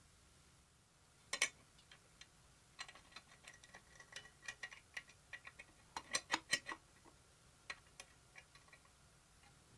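Irregular light metallic clicks and taps, as small metal parts and hand tools are handled. The sharpest come about a second and a half in and in a quick cluster of four or five around the middle.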